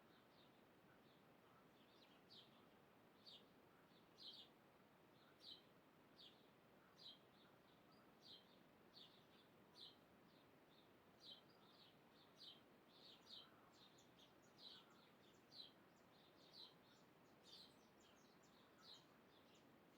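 A bird calling with short, high chirps, roughly one a second and unevenly spaced, over faint background hiss.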